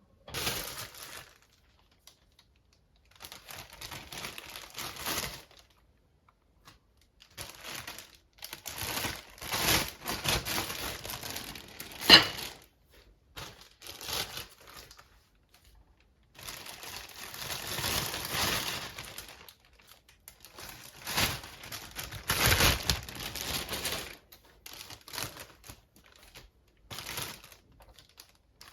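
Packaging crinkling and rustling as it is handled by hand, in irregular bursts with short pauses and one sharper crackle about twelve seconds in.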